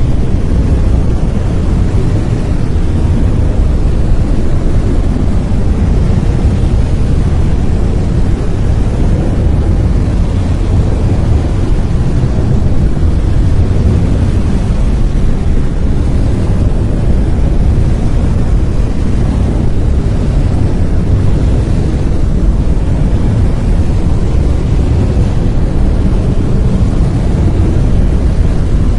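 Brown noise: a steady, loud, deep rumbling hiss, strongest in the low end and fading toward the treble, unchanging throughout.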